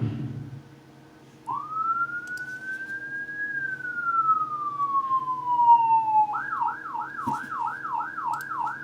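Siren sound effect: a single clean tone rises and then slowly falls in one long wail, then switches to a fast yelp of about three to four up-and-down sweeps a second. A low rumble fades out just before the siren starts.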